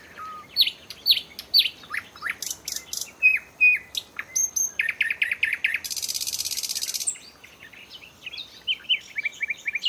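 Common nightingale singing: a varied song of loud, sharp whistled notes, a fast run of repeated notes, a harsh buzzing rattle lasting about a second midway, then quick repeated notes near the end.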